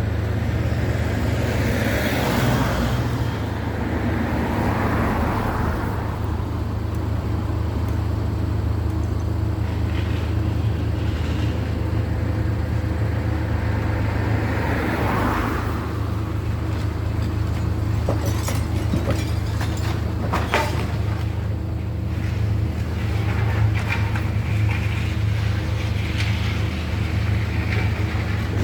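Street traffic: a few cars passing over a steady low engine hum, with some short sharp knocks a little past the middle.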